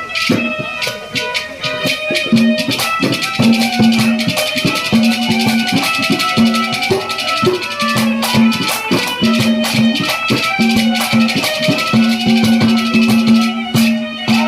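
Haryanvi ragni folk music played on stage, without singing: quick rhythmic rattling percussion under steady held instrumental notes, with a low note that sounds again and again in held stretches.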